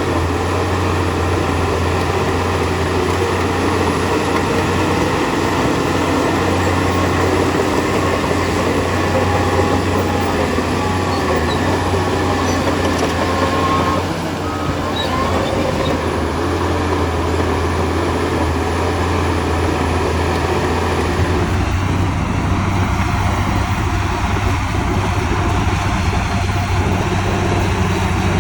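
Heavy diesel engine of an earthmoving machine running steadily under load, its sound changing about three quarters of the way through.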